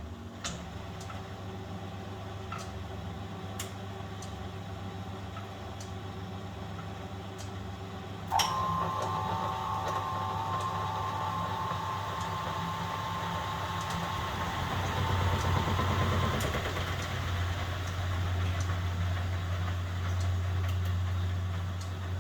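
1971 Constructa Garant 491 washing machine running through a boil wash: a steady low hum with scattered ticks, then about eight seconds in a sharp click and a whine that runs for about eight seconds, and a deeper, louder hum toward the end.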